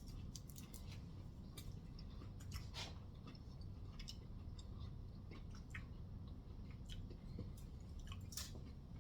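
A person chewing a cookies and cream Hershey's Kiss: faint, irregular mouth clicks and smacks over a steady low hum.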